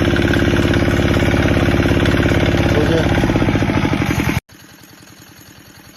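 Single-cylinder diesel engine of a walking power tractor running loud, with a fast, even pulse. About four seconds in it drops suddenly to a much quieter run of the same rapid pulses.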